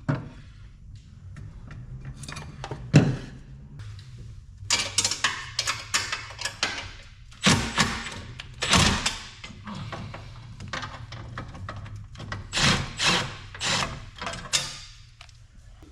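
Hands handling and shifting parts: a run of knocks and clunks, the loudest about three seconds in, with stretches of scraping and rubbing, over a steady low hum.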